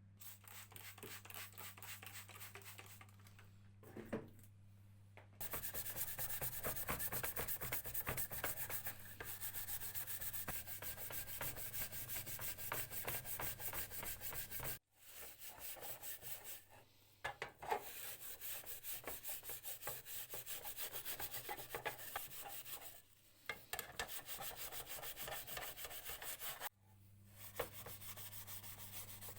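Hand sanding: rapid back-and-forth rubbing strokes of abrasive on a workpiece, in several long runs broken by short pauses.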